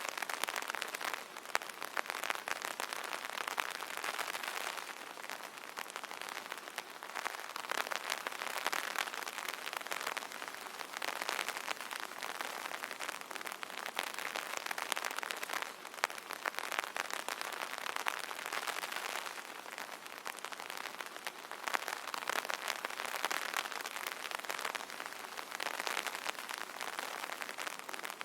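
Rain pattering on an umbrella's fabric canopy: a dense, steady patter of many drops that swells and eases every few seconds.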